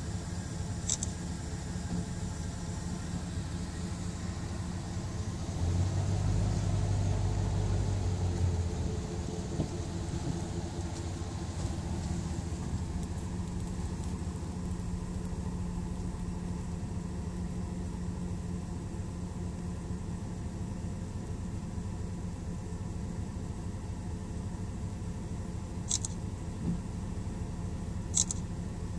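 Car engine running with a steady low rumble, louder for a couple of seconds about six seconds in. A few short, sharp clicks near the end.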